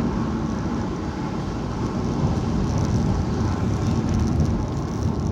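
Steady road and engine rumble of a car driving slowly, heard from inside the cabin.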